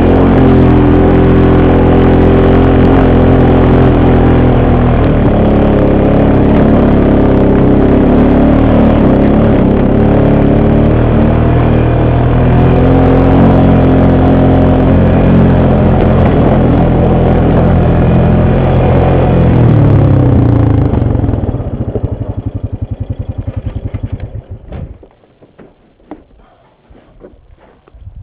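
ATV engine running loud, its pitch rising and falling as it is ridden. About twenty seconds in it drops to a lumpy idle, then shuts off, leaving only faint clicks and knocks.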